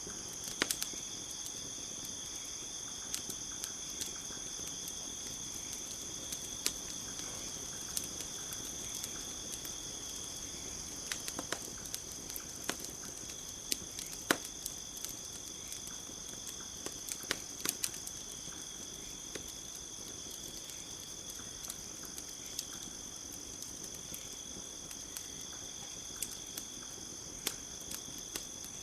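Campfire crackling, with irregular sharp pops over a steady high chirring of night insects.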